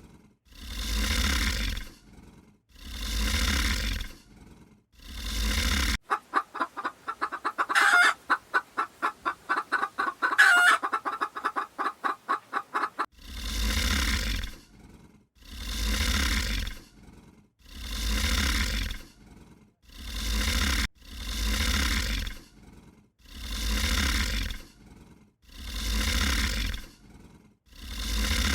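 Animal calls: a deep, loud call repeated about every second and a half, broken from about 6 to 13 seconds in by a fast run of rapid pulsing calls.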